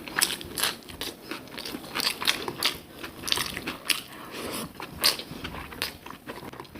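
Close-miked eating sounds: a person chewing and biting food, with quick, irregular crisp crunches and wet mouth clicks.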